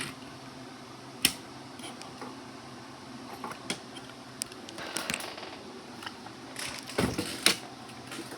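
Small toy trains being handled: scattered light clicks and taps of plastic and metal, with a sharp click about a second in and a busier cluster of knocks near the end, over a faint steady room hum.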